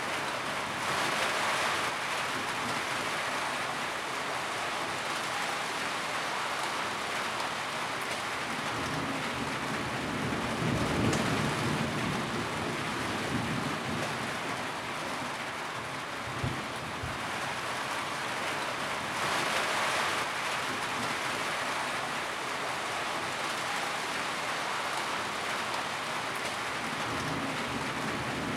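Steady rain drumming on a tin roof, an even hiss of drops, with a few soft low rumbles and one short thump partway through.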